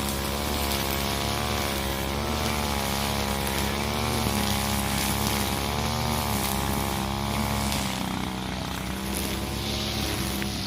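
Husqvarna 541 two-stroke brushcutter engine running at high speed, its pitch wavering up and down as it works, easing a little about eight seconds in.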